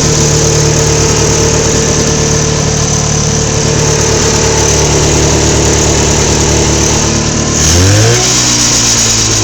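Polaris snowmobile's two-stroke engine running just after a cold start on choke, holding a steady fast idle. Near the end it revs up briefly and settles to a lower idle.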